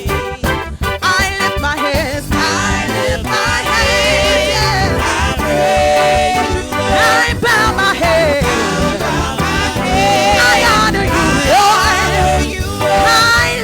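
Upbeat gospel worship music from a church band, with bass, drums and singing, playing without a break.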